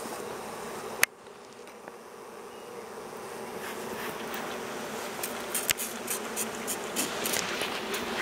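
Swarm of honeybees buzzing as a steady hum. A sharp click about a second in, after which the buzzing drops and then slowly grows louder, with scattered small clicks in the second half.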